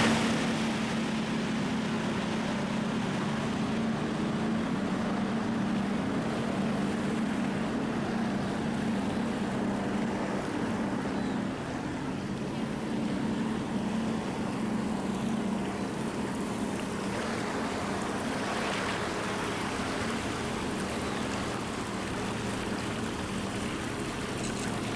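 Motor vessel's engine running with a steady low drone, with wind and water rushing past the hull.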